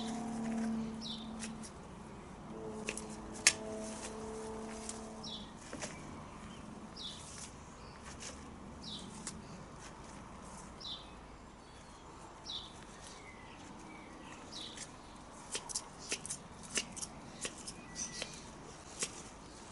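Secateurs snipping and clicking through bluebell foliage, the sharp clicks coming thick and fast in the last few seconds. A small bird gives short high chirps every second or two. A low steady hum runs through the first five seconds.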